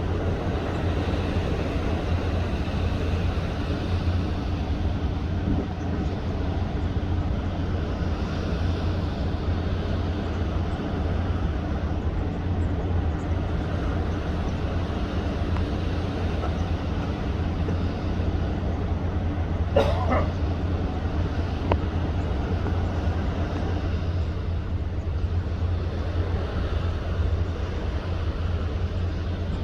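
Steady wind noise on the microphone over a constant low hum at sea. About two-thirds of the way through, one brief sharp knock with a short rising squeak.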